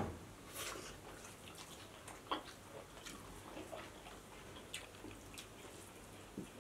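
Close-miked eating sounds: wet chewing, lip smacks and soft squelches of boiled egg, rice and cooked greens being eaten by hand, with scattered short clicks and one sharper click about two seconds in.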